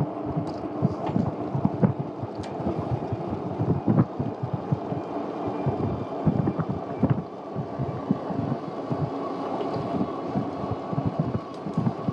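Wind buffeting the microphone on a moving e-bike, an irregular low rumble and thumping, with a faint steady hum underneath.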